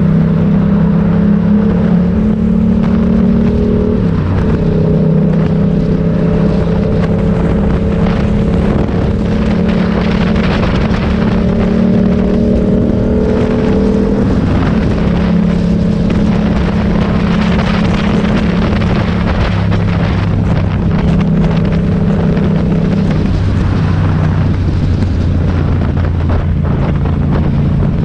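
Motorcycle engine running steadily under a layer of wind and road noise. Its pitch shifts about four seconds in and again about fourteen seconds in.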